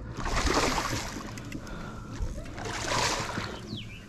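Water splashing and sloshing at a kayak in two surges, about a second in and again around three seconds, with a short falling whistle near the end.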